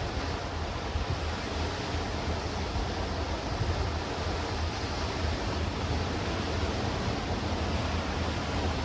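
Sea waves washing and breaking steadily over black rocks and stones on a rocky shore, with wind rumbling on the microphone.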